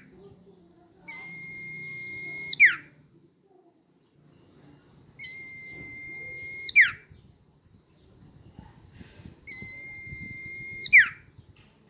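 Common iora in full song: three long, steady whistled notes a few seconds apart, each held about a second and a half and ending in a quick downward slur.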